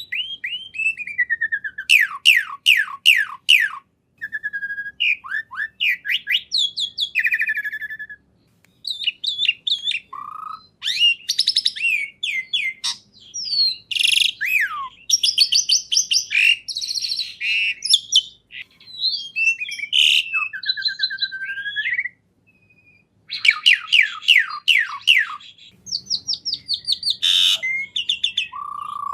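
A caged songbird singing a long, varied song: fast trills, quick down-slurred whistles and chattering phrases, pausing briefly twice.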